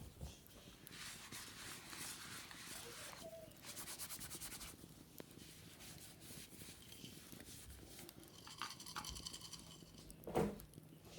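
Wicker basket being scrubbed and scratched by hand: a stretch of rubbing, then a quick run of fast scratching strokes, a few small clicks, and one louder bump near the end.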